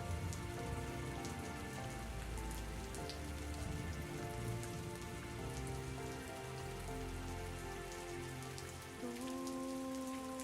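Steady rain with fine scattered drop ticks, over soft instrumental music holding slow sustained chords.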